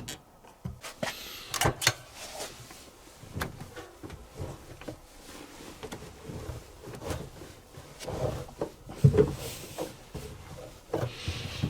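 Handling noises on a compact washing machine: irregular clicks and knocks with a few short rubbing or sliding sounds, and the loudest knock about nine seconds in.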